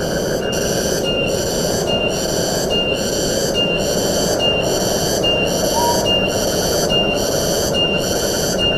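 Forest ambience: a steady rush of wind, with a high-pitched insect call pulsing about every 0.8 s over it.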